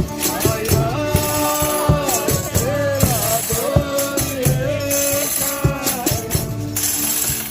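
Folia de Reis music: tambourines jingling in a steady rhythm under long, held melodic notes that waver in pitch.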